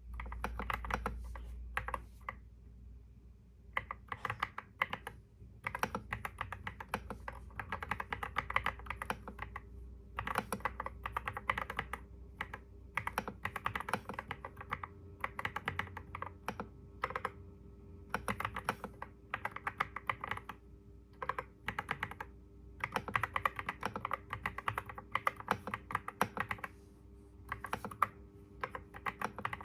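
Typing on a computer keyboard: quick runs of key clicks in bursts, broken by short pauses, with a longer pause a few seconds in.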